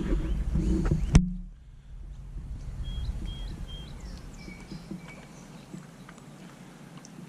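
Songbirds calling: three short, even whistled notes in a row, then two lower notes shortly after, among scattered chirps. About a second in, a low rumble ends in a single sharp click.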